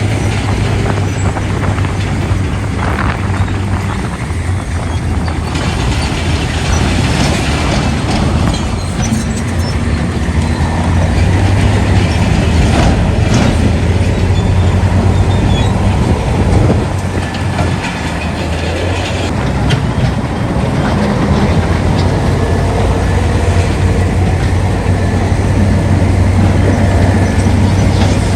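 Heavy diesel earthmoving machinery at work: engines running steadily under continuous metallic clanking and rattling.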